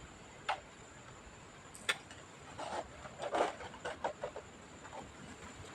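Handling noises from the disassembly of an all-in-one PC: two separate sharp clicks, then a short run of scraping and clicking about halfway through, as from parts or tools on the plastic case.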